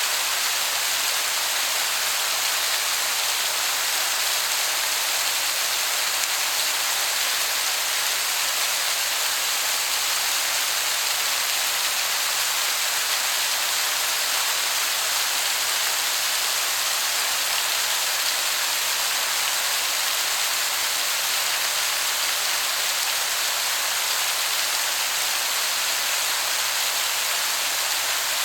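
Waterfall heard from a distance as a steady hiss like heavy rain.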